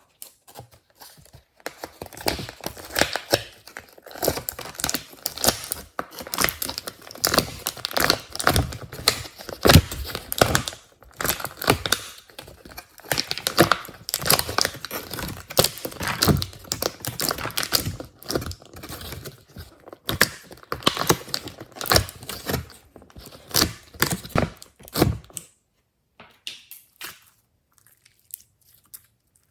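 Hands squishing and stretching glossy slime, making a dense run of sticky crackles and pops that stops abruptly about 25 seconds in, followed by a few faint clicks.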